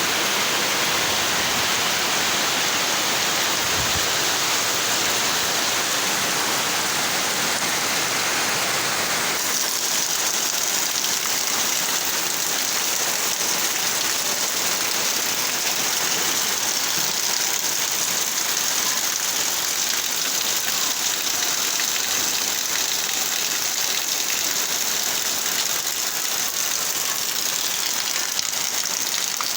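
Heavy rain pouring down in a steady, dense hiss of drops on surfaces, its tone changing about nine seconds in.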